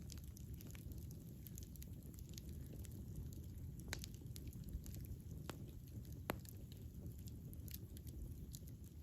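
Wood campfire burning, with a steady low rumble of flame and scattered sharp crackles and pops, the loudest pops a few seconds in.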